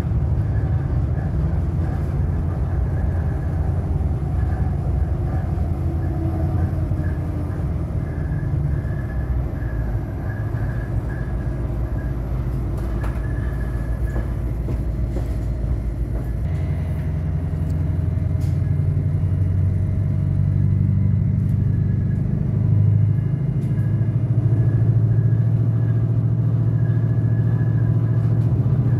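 Adelaide metro diesel railcar running along the track, heard from inside the carriage: a steady low rumble of engine and wheels, which shifts in tone about sixteen seconds in.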